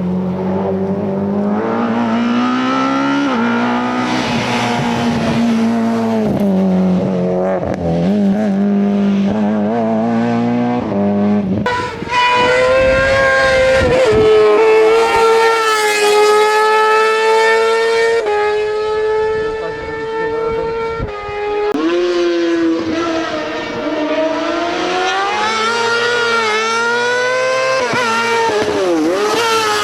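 Rally cars' engines at full race pace, revving up and dropping back repeatedly through gear changes. Partway through, the sound cuts abruptly to a different car's engine.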